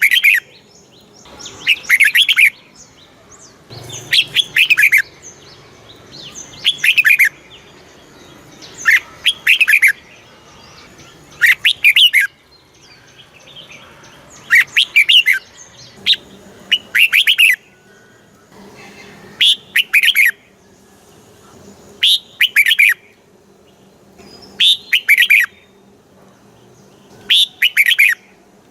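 Red-whiskered bulbul singing: short, bright, whistled phrases of a few quick notes, repeated about every two and a half seconds.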